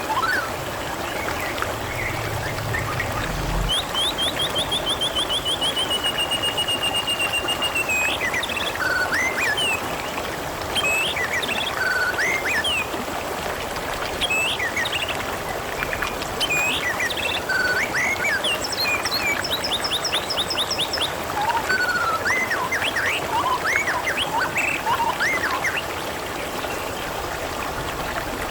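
Water trickling and gurgling steadily, with small birds chirping over it. There is a long falling trill about four seconds in and a quick high trill about two-thirds of the way through.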